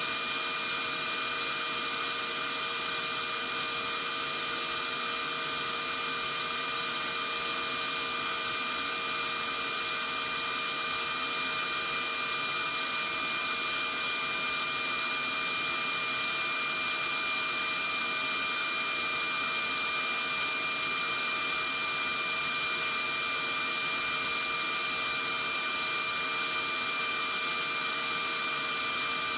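Vacuum cleaner running steadily: an even rushing hiss of air with a constant motor whine held at several fixed pitches, never changing speed or level.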